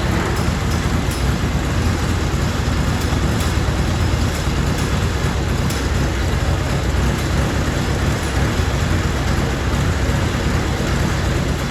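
1936 Silver King R44 tractor's Hercules IXA four-cylinder engine running steadily with a low, rapid pulsing rumble.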